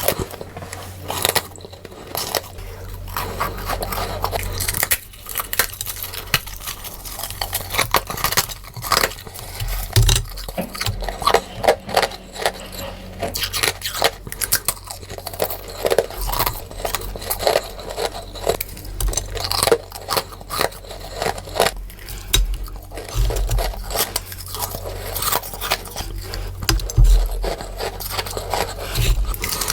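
Close-up crunching and biting of freezer frost, dense irregular crunches and scrapes following one another quickly, sped up.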